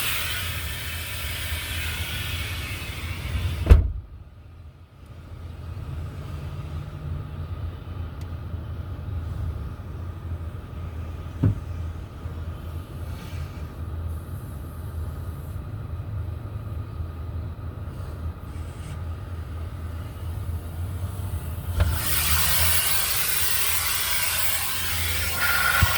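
Car wash water spray hissing, cut off by a loud thump about four seconds in. Then a low steady hum with a single knock partway through, and the spraying hiss comes back near the end.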